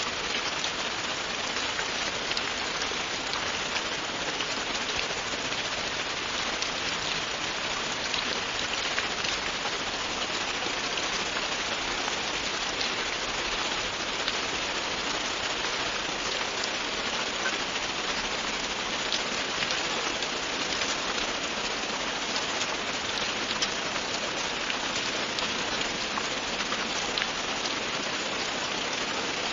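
Steady, continuous rain falling on a surface, an even hiss with small individual drop ticks scattered through it.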